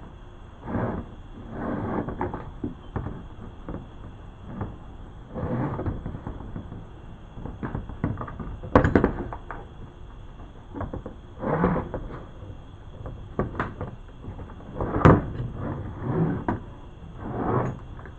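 Handling noise from a kayak's homemade anchor trolley being worked: irregular scraping, rubbing and knocking, with sharper knocks about nine seconds in and again about fifteen seconds in.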